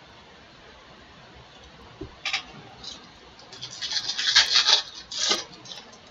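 A trading-card pack wrapper being torn open and crinkled by hand: a soft knock, then sharp crinkling rustles, the loudest and longest about four seconds in.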